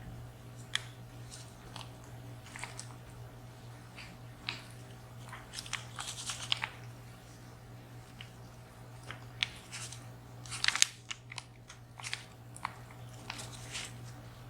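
Scattered small metal clicks and scrapes of hand tools and picks working on a VSR dimple lock cylinder, with a quick flurry of clicks about two-thirds of the way in.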